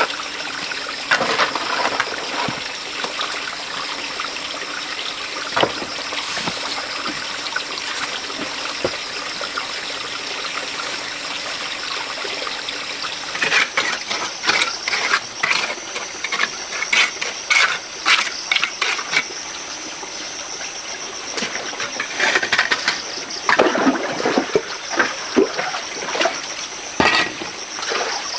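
Steady rush of flowing water, with bursts of splashing and scraping clatter about halfway through and again near the end.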